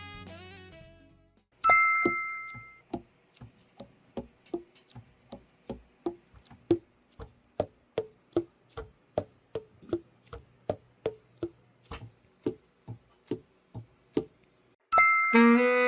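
Tenor saxophone keys tapped in a steady run of short clicks, about two to three a second, each pad closing with a brief hollow pop; this is a check of the overhauled key action and pad seal. The run is preceded by a single bright ringing strike and ends with a sustained saxophone note starting near the end.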